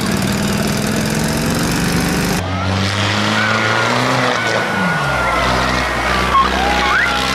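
Tractor engine running steadily, its note changing abruptly about two and a half seconds in. Thin high wavering tones sound over the engine in the second half.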